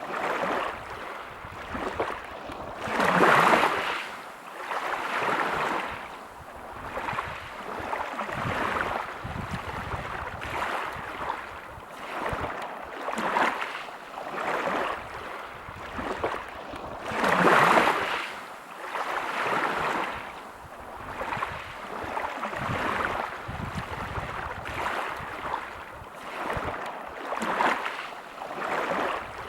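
Waves breaking and washing over a pebble beach, the surf swelling and falling every second or two, with two louder breakers, one a few seconds in and one around the middle.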